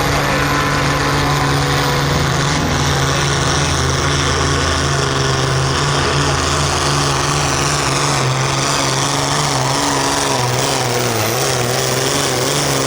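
Light pro field pulling tractor's modified diesel engine running hard through a pull, loud and steady, its pitch wavering a little in the last few seconds.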